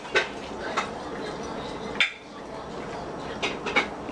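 Kitchen dishes and utensils clinking and clattering: a handful of short, sharp clinks spread through the moment over a steady background noise.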